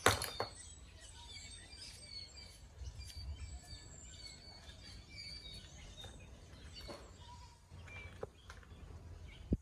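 Small birds chirping in short, repeated high calls over a steady low background rumble, with a sharp knock right at the start.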